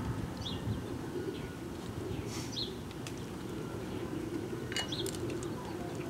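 Birds chirping now and then, a few short high calls, over a steady low background hum.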